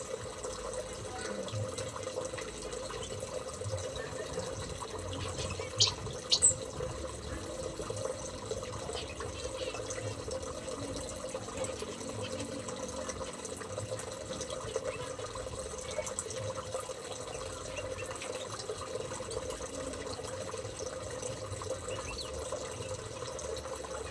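Steady running water, with two short, sharp high-pitched chirps from a small bird about six seconds in.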